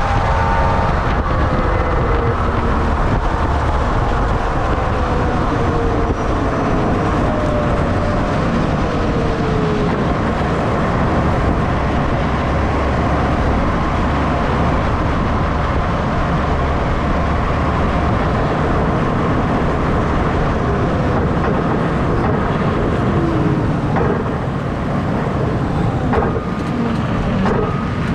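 Electric-powered Legend drag car slowing after a pass. Its motor whine falls steadily in pitch over the first ten seconds, over a continuous rush of wind and road noise, with a few short knocks near the end.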